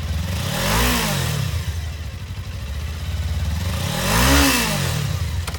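2018 Suzuki GSX250R's liquid-cooled, fuel-injected twin-cylinder engine idling, blipped twice with the throttle, each rev rising and falling back to idle, about a second in and again about four seconds in.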